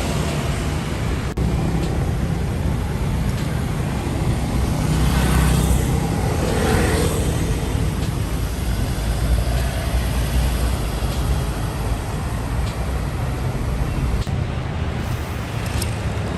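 Road traffic: motor vehicle engines running with tyre noise, swelling as vehicles pass and changing abruptly a couple of times.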